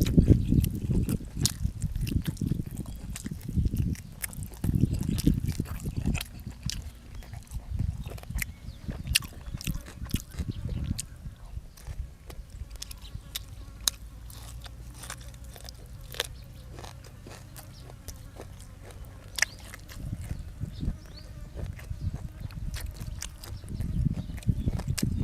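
A person chewing and eating with many sharp mouth clicks and wet smacks, with low thuds of chewing through much of it and a quieter stretch in the middle.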